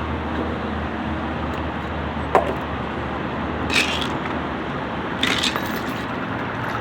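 Eating and food-handling noises: a sharp click about two and a half seconds in, then short scraping rustles near four seconds and again past five seconds, over a steady low background hum.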